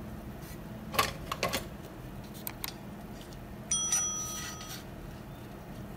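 A few sharp clicks and knocks of handling, then, a little past halfway, a short metallic ring of a small metal part struck or set down, fading out over about a second. A steady low hum runs underneath.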